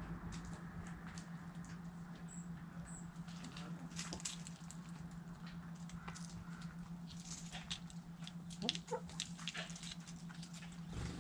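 Chickens pecking at food scraps: irregular beak taps and clicks, with a few short clucks and high chirps. A steady low hum runs underneath.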